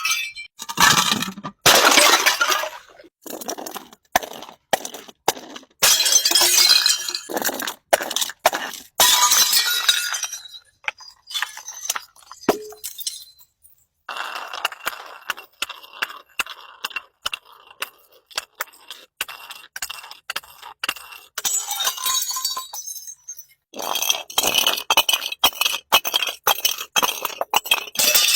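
Glass bottles tumbling down a staircase, clinking and breaking in several dense bursts of impacts, with sparser clinks and a faint glassy ringing between the bursts.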